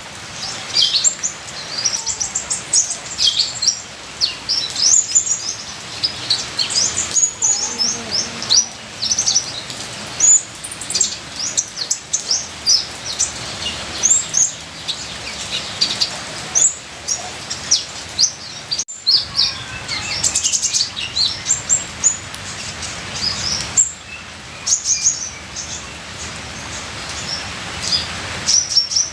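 Sunbird of the kind Indonesian keepers call kolibri ninja singing a rapid, unbroken stream of high, thin chirps and quick descending notes. It sings over a steady background hiss of trickling rain water, with a brief break about two-thirds of the way through.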